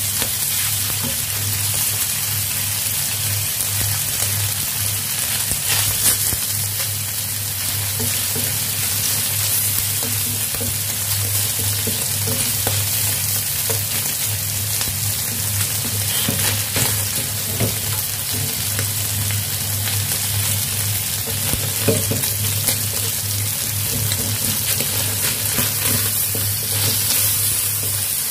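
Sliced beef and salted mustard greens sizzling in hot oil in a stainless steel wok, with a wooden spatula scraping and knocking against the pan now and then as it stirs. A steady low hum runs underneath.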